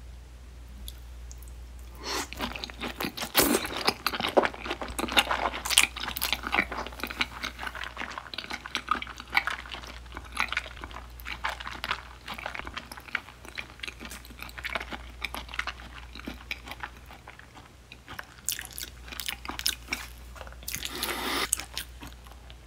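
Close-up mouth sounds of someone chewing raw grey mullet sashimi dipped in soy sauce: irregular clicks and smacks that start about two seconds in and keep going, with a louder stretch near the end.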